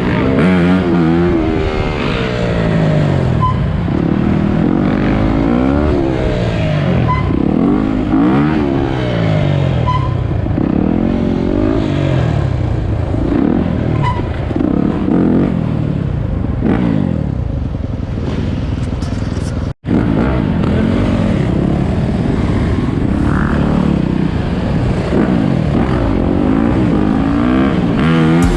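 Dirt bike engines revving up and down over and over, several at once, their pitch rising and falling. The sound drops out for an instant about two-thirds of the way through.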